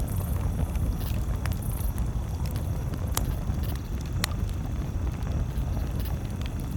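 Wood campfire crackling, with a few sharp pops about one and a half, three and four seconds in, over a steady low rumble.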